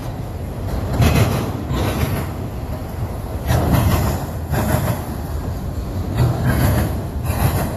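Freight train cars rolling past over a low rumble, their wheels clacking over rail joints in irregular bunches.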